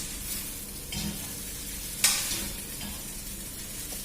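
Chow mein noodles sizzling as they are stir-fried in a karahi, a steady frying hiss. Two sharp strikes of a utensil in the pan come about one and two seconds in, the second the loudest.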